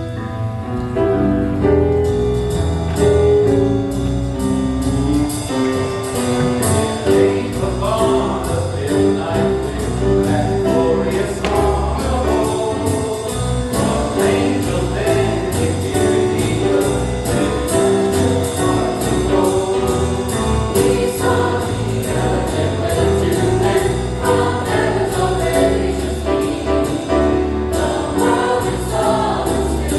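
Choir singing a jazzy Christmas number with instrumental accompaniment and a steady swung beat.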